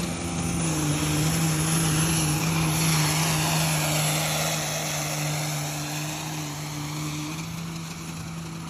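Cummins diesel pickup with a 53 block under hard throttle pulling a weight sled. The engine drone holds steady, swelling over the first few seconds and then slowly fading as the truck moves off down the track.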